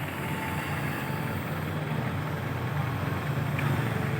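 Heavy diesel engine running steadily at a low, even speed: a continuous low rumble.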